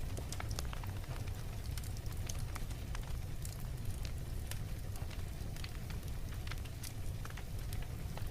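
Wood fire crackling in a fireplace: a steady low rumble with frequent irregular snaps and pops.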